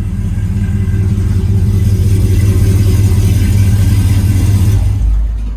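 Engine of a 1969 Chevy K20 pickup, an LS-swapped 6.0 L LQ9 V8, running loud. It rises over the first couple of seconds, holds steady, and drops off near the end.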